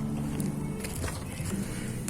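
Wood campfire crackling, with scattered small snaps, over a low steady hum.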